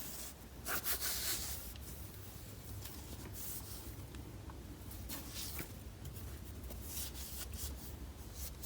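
A damp microfibre cloth rubbed over a car wheel rim: soft, irregular wiping strokes, over a faint low rumble.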